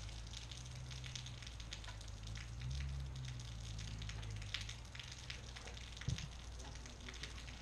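Rain pattering and dripping steadily, a dense crackle of fine drops, over a low steady rumble. A single short knock comes about six seconds in.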